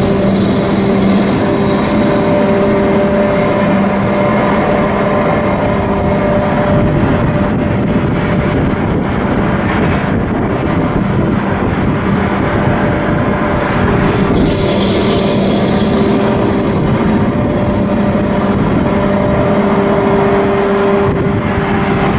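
Marine diesel engine running steadily and loudly, a constant hum under dense mechanical noise.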